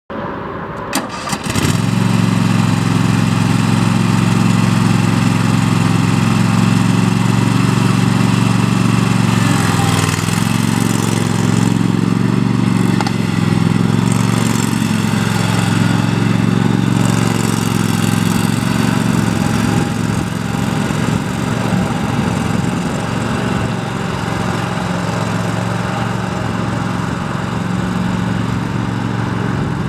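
Kohler 7000 Series 24 HP 725cc V-twin engine of a Toro TimeCutter zero-turn mower starting up: a few clicks, then the engine catches about a second and a half in and runs steadily, settling a little lower about twenty seconds in.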